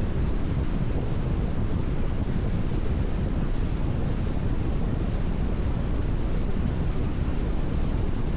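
Steady road noise of a car cruising on a rain-wet expressway: tyre hiss on the wet surface and rushing wind over a deep, even rumble.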